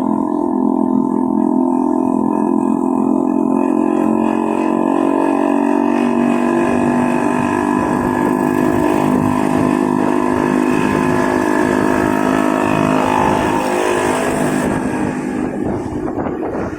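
Motorcycle engine running at a steady, even pitch while riding in traffic, fading into rougher road and wind noise near the end.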